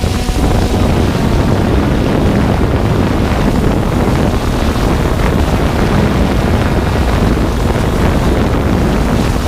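Heavy wind buffeting the microphone, a steady rough rushing, with a faint low hum underneath.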